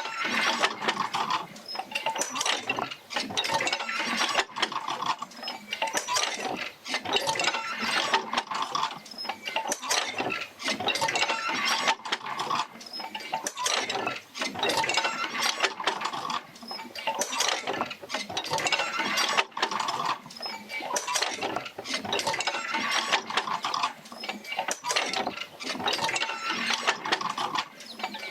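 Oil-field field wheel rocking back and forth as it passes the rig's stroke out to the jerker lines to several pumps: a rhythmic run of creaks, clinks and knocks that swells and eases with each stroke in a steady repeating cycle.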